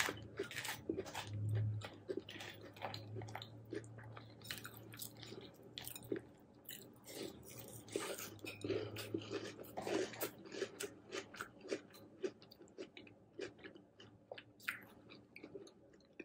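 Close-up crunching and chewing of a mouthful of crunchy hot cocoa cereal with milk, in quick irregular crunches that keep on throughout.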